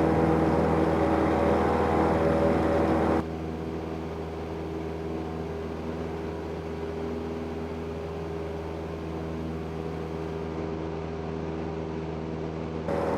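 Cessna 172N's four-cylinder Lycoming engine running steadily. About three seconds in the sound turns abruptly quieter and duller while the engine note itself carries on unchanged.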